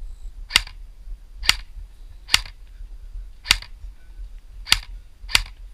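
Airsoft gun fired in semi-auto, six single sharp shots spaced about half a second to a second apart.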